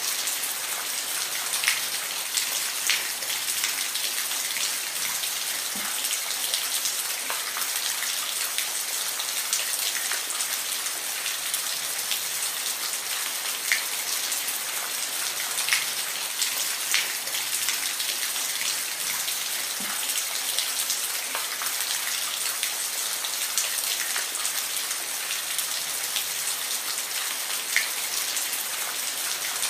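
Steady rain: a constant hiss with scattered louder drops ticking against a surface.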